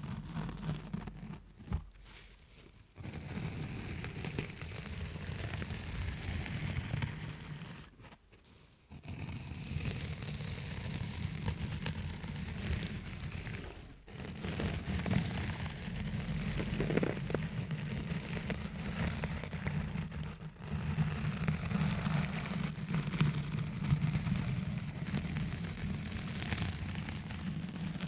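Fast tapping and scratching directly on a microphone, dense and continuous, with short breaks about two, eight, fourteen and twenty seconds in.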